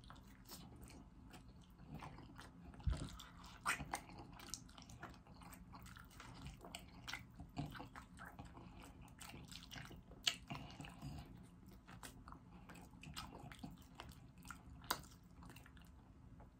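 Biting and chewing of pancake-battered fried chicken, meat pulled off the bone by mouth: a run of small wet mouth clicks and chews with a few sharper bites scattered through.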